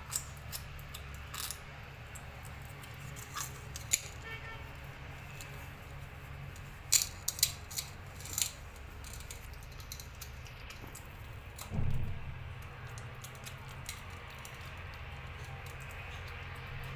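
A kitten eating: scattered small clicks and rattles of food and dish, with a cluster of louder clicks a little before the middle and a dull thump about twelve seconds in, over a steady low hum.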